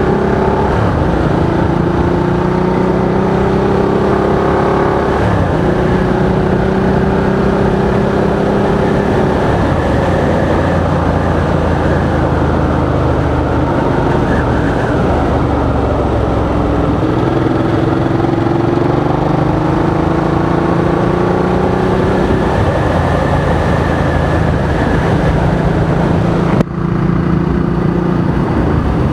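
Ducati Diavel 1200's V-twin engine under way through a very loud aftermarket exhaust. Its pitch climbs steadily and then drops back at each gear change, several times over.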